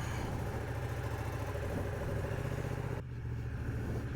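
Motorcycle engine idling steadily with an even low pulse; the higher hiss above it drops away about three seconds in.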